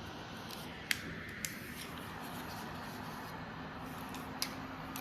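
Rechargeable neck fan running with a steady faint whir and hum, with three sharp clicks as it is handled.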